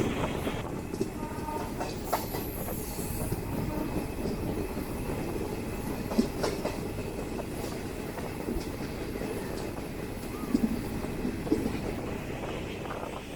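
DEMU diesel passenger train running along the line, heard from on board: a steady rumble with wheels clattering over rail joints and scattered sharp knocks, loudest about six seconds in and again near the end.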